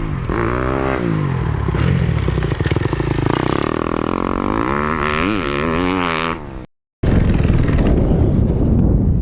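Dirt bike engine revving on a motocross track, its pitch climbing and dropping again and again as the rider works the throttle and shifts through jumps and turns. The engine sound cuts off abruptly about six and a half seconds in, and after a brief silence a steady rushing noise, like wind on the microphone, takes over.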